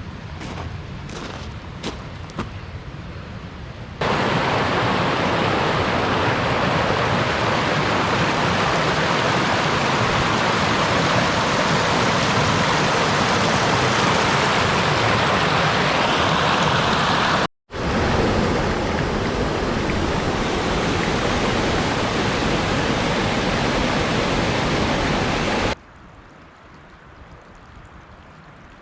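Rushing water of a waterfall, a loud, steady, even roar that starts abruptly about four seconds in after a quieter stretch with a few light clicks. It cuts out for an instant a little past halfway, resumes, and drops to a faint hiss near the end.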